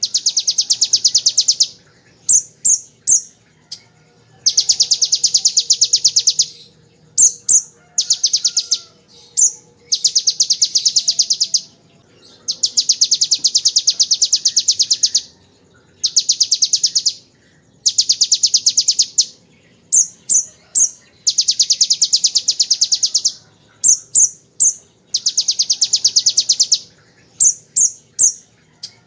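Kolibri ninja (Van Hasselt's sunbird) singing: long, fast, high buzzing trills of one and a half to two and a half seconds, the 'ciblek ngebren' rattle borrowed from the bar-winged prinia, alternating with short bursts of two or three quick high chirps.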